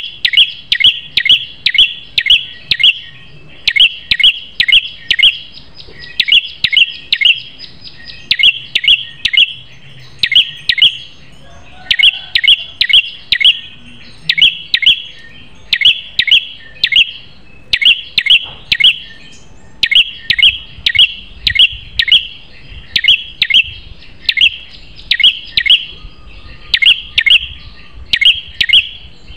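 Prenjak kepala merah calling: sharp, high chirping notes in quick groups of three to five, the groups following one another without pause.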